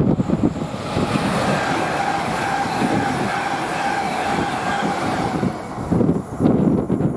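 A train passing at speed: a steady rush with a high, even whine through the middle. Near the end the whine fades and wind gusts buffet the microphone.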